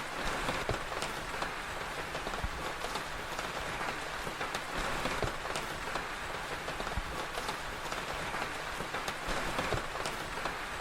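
Steady rain hiss with scattered sharp crackles and pops from a wood fire throughout.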